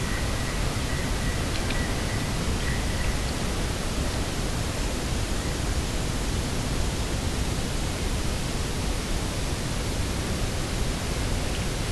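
Steady rushing wind, with a deep rumble from the wind on the microphone, unchanging in level. A faint high whistle sounds in the first few seconds.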